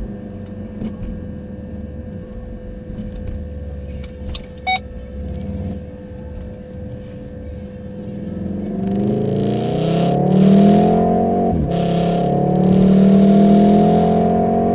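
A car engine at a steady low run, then accelerating hard from about eight seconds in. The pitch climbs, drops abruptly at a gear change about three seconds later and climbs again, with bursts of hiss over the top.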